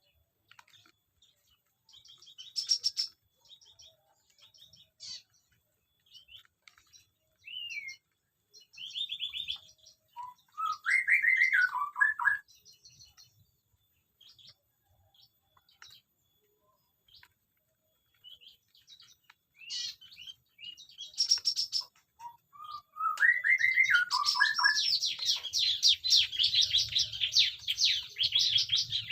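Small aviary birds chirping in scattered short calls, with two brief warbling songs that rise and fall. Near the end they break into dense, continuous chattering.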